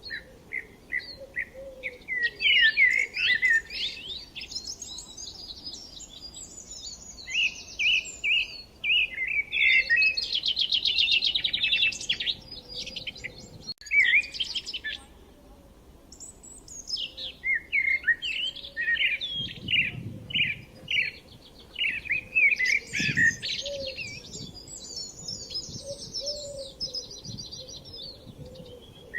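Songbirds singing: strings of short repeated chirps and fast trills, one bird's song after another. The song breaks off for an instant about halfway through.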